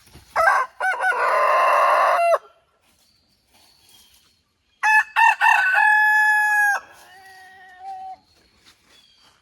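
Rooster crowing twice, each crow about two seconds long, the first rough and the second clearer with a long held final note. A fainter crow follows right after the second, from a more distant rooster.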